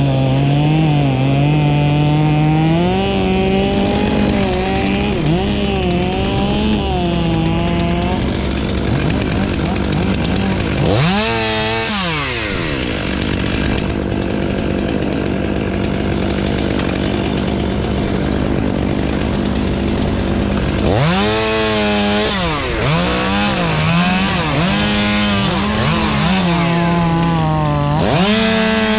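Chainsaw running while cutting wood, its engine pitch dipping and recovering again and again as the chain bites. It drops sharply and revs back up about eleven seconds in.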